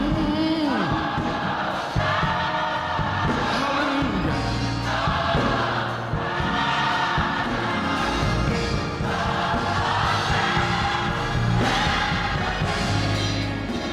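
Gospel choir singing a slow, sustained song with a band beneath it, held chords over a steady bass line.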